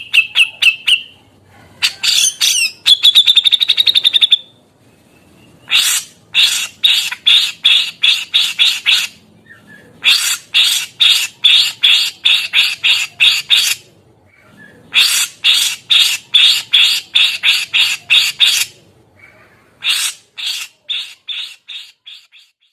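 Grey-cheeked bulbul (cucak jenggot) calling in six runs of rapidly repeated harsh notes, about three to four a second, separated by short pauses. The second run is a faster trill.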